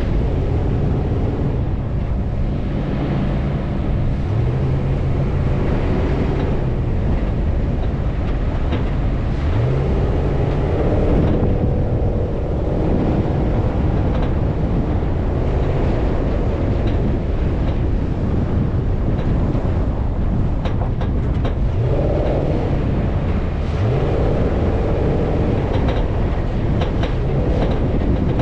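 Off-road vehicle engine running hard over sand, its pitch rising in several revs, about four seconds in, ten seconds in and twice near the end, under a steady rumble of driving noise.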